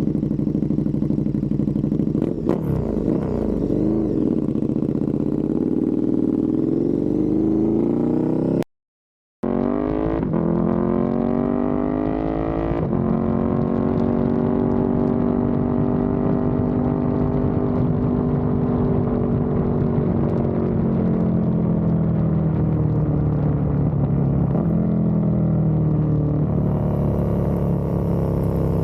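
KTM 1290 Super Duke R Evo's V-twin engine running through a full titanium exhaust, its pitch falling, holding and rising again with the throttle. A short silent gap about nine seconds in.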